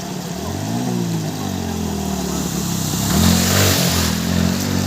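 A motor vehicle's engine running and picking up revs, its pitch rising from about half a second in and then holding steady. A rushing hiss rises over it about three seconds in.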